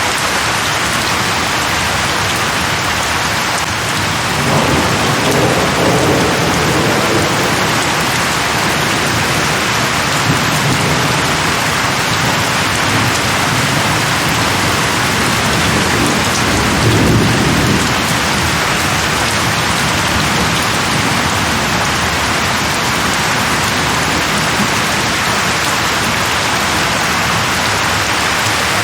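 Steady heavy rain hissing on surfaces. Low thunder rolls twice, once about five seconds in and more strongly past the middle.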